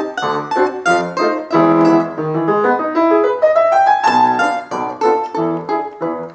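A plucked string instrument plays a quick tune over piano accompaniment, with a rising slide in pitch about three seconds in.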